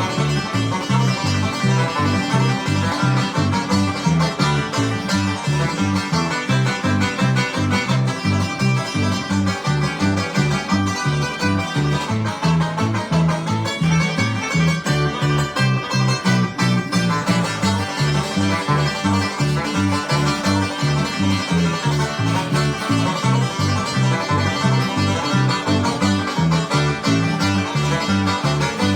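Bluegrass band playing live: banjo picking over guitar and a bass line that steps steadily on the beat.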